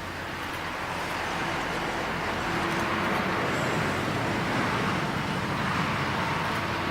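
Boeing 777-200 airliner's twin jet engines, a steady roar that grows louder over the first few seconds and then holds, with a faint steady whine above it.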